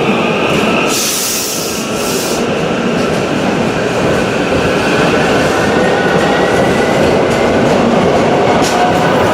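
Electric commuter train running past close by on the station track: a loud, steady rumble of wheels on rail with faint thin tones riding over it.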